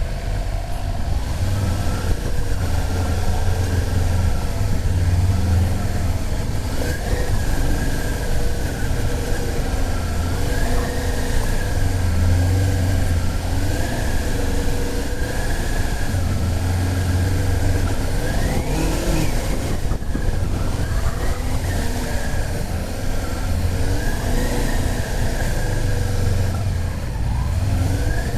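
Motorcycle engine running, its revs rising and falling several times as it accelerates and changes gear.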